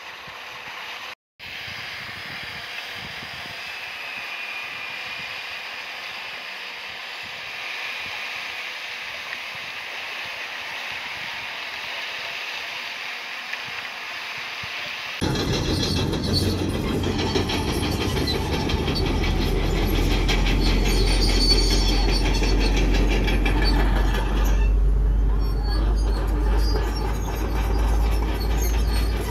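Crawler bulldozer working, its steel tracks clanking and squealing. The sound changes suddenly about halfway in and becomes much louder and deeper.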